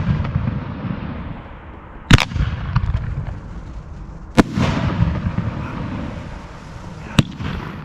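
1.3G display fireworks bursting, three sharp bangs about two to three seconds apart, the first the loudest. A low rolling rumble carries on between the bangs.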